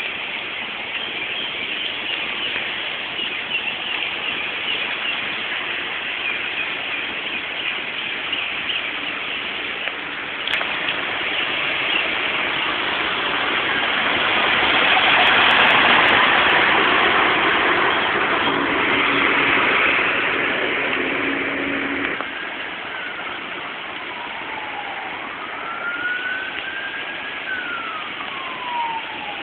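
Heavy rain pouring in a steady hiss that swells louder midway through. Near the end an emergency vehicle's siren wails, its pitch sliding down and up.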